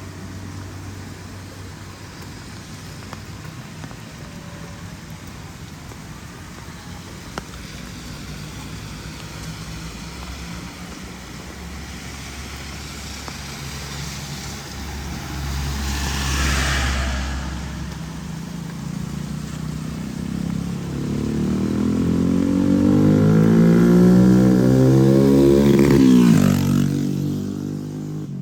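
A motor vehicle's engine approaches and passes close by, getting louder with its pitch bending up and down, loudest a few seconds before the end and then dropping away quickly. A shorter passing rush comes about halfway through, over steady rain noise throughout.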